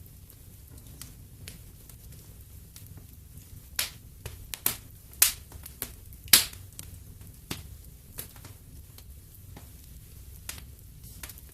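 Wood fire in a fireplace crackling: irregular sharp pops and snaps, with a cluster of louder pops in the middle, over a steady low rumble.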